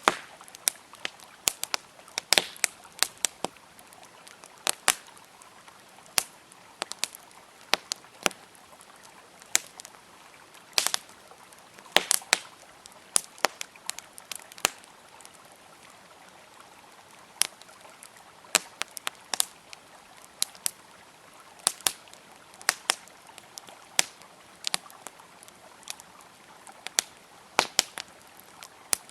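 Wood campfire crackling: irregular sharp pops and snaps, several a second at times, over a faint steady rush of flowing river water.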